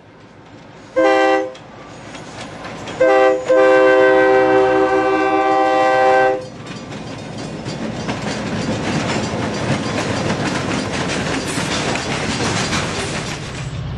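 Diesel freight locomotive's multi-chime air horn sounding for a grade crossing: a short blast about a second in, then a brief blast followed by a long one lasting about three seconds. After the horn stops, the freight cars roll past with a steady clickety-clack of wheels on rail joints that grows louder toward the end.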